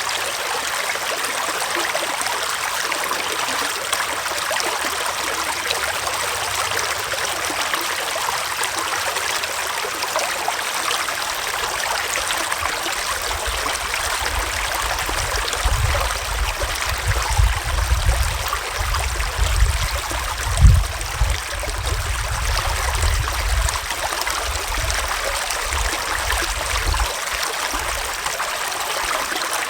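Small forest stream flowing, a steady rush and trickle of water. In the second half there is a spell of low rumbling, strongest about two-thirds of the way through.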